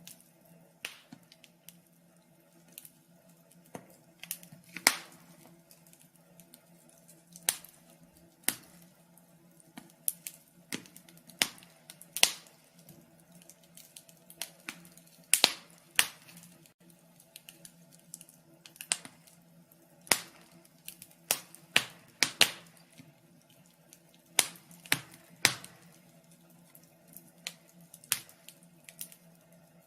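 Fire crackling: irregular sharp pops and snaps, several a second, some much louder than the rest, over a faint steady low hum.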